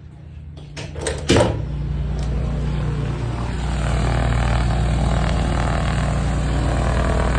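A door clunks about a second in. Then a loud, steady engine rumble from a propeller aircraft sets in, growing louder about four seconds in.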